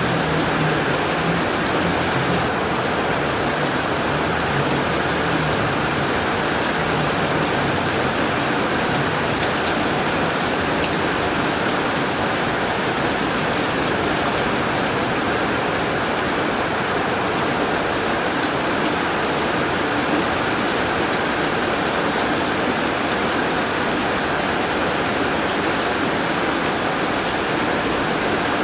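Rain falling steadily on a tin roof: an even, dense hiss with scattered sharp drop ticks.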